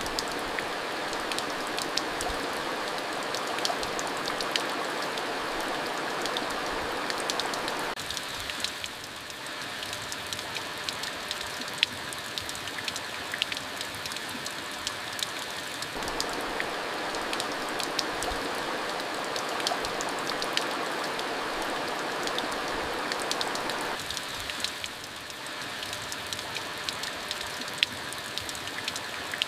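Steady rain falling, a dense hiss with many individual drops ticking sharply, softening a little for several seconds about a third of the way in and again near the end.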